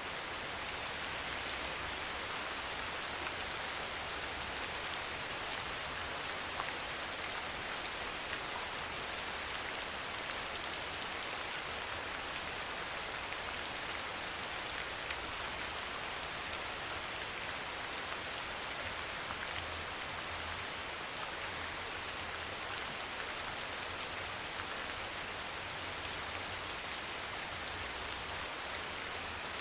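Steady, even rain falling on a surface, a continuous hiss with scattered individual drop ticks.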